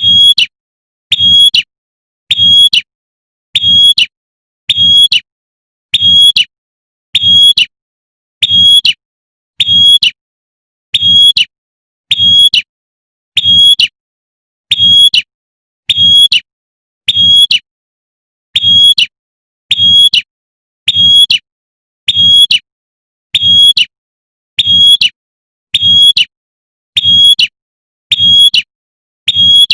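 Female prenjak (prinia) giving its sharp, high 'tembakan' call over and over, a short loud note about every second and a quarter with silence between, used as a lure to call in males.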